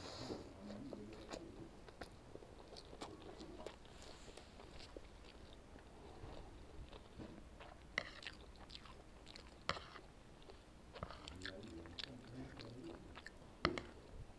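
Close-miked chewing of instant noodles: wet mouth sounds and bites with scattered sharp clicks, the loudest click a little before the end.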